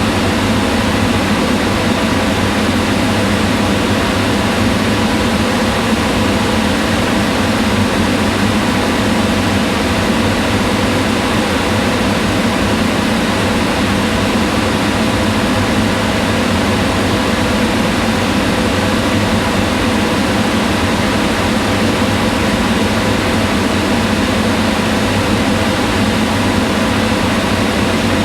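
Kitchen range hood fan running steadily: an even rush of air with a low hum under it, unchanging throughout.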